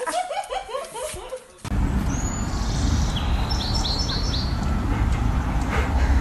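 A small bird chirping a quick run of short, high notes over a steady low rumble.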